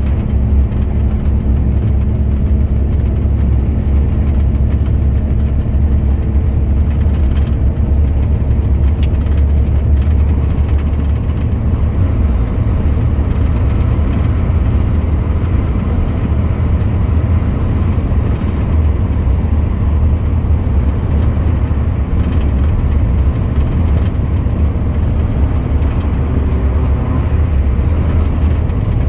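A truck driving at a steady pace, its engine and road noise making a loud, even low rumble.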